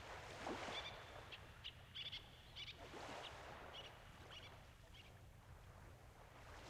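Faint outdoor ambience: small birds chirping in many short, high calls, over a couple of soft swells of noise.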